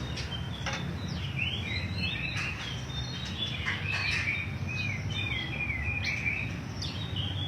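Songbird singing: a run of short, bending whistled notes, thickest in the middle stretch, over a steady low background rumble.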